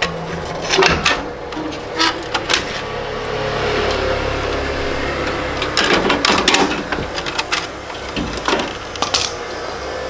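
Irregular clicks and knocks, some in quick clusters, over a steady low hum.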